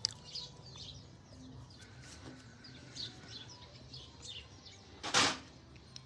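Small birds chirping in short, high, downward-sliding calls, several a second. About five seconds in comes a brief, louder whoosh.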